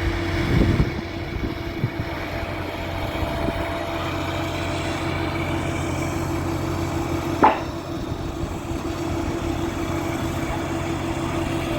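Large mobile crane's diesel engine running steadily at a constant speed. About seven seconds in there is a single short, sharp higher-pitched chirp.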